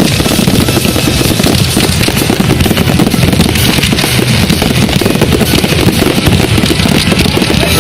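Fireworks display firing a dense, continuous barrage of rapid bangs and crackling.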